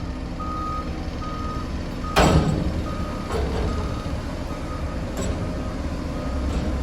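A construction machine's reversing alarm beeping steadily, a little more than once a second, over a diesel engine's low rumble. A heavy thump about two seconds in, with fainter knocks later.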